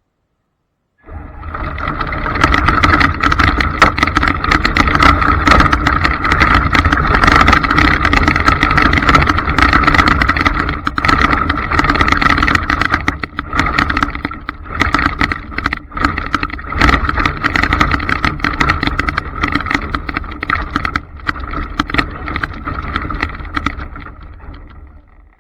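Traxxas Slash RC trucks running: a steady electric-motor whine with rattling and clicking from the drivetrain and tyres over the ground. It starts abruptly about a second in and fades out near the end.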